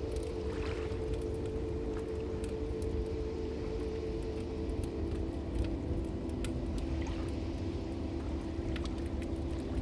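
Wood fire burning in a fireplace: scattered sharp crackles and pops over a steady low rumble of flames.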